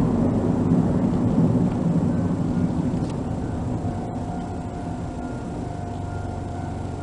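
Mitsubishi GTO Twin Turbo's V6 engine running, heard from inside the cabin: loud at first, then settling to a quieter steady idle. About halfway through, the level-crossing warning alarm starts ringing steadily over the idle.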